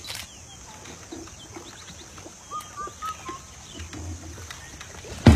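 Quiet outdoor-style ambience with a steady high hiss and a few short bird chirps around the middle. A loud sound starts abruptly at the very end.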